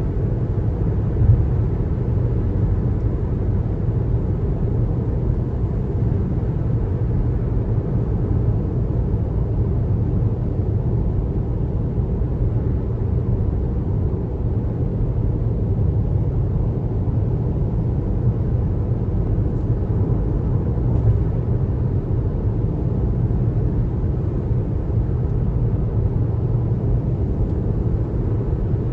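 Steady low road rumble of a car driving on a highway, tyres and engine running at an even pace, with one brief bump about a second in.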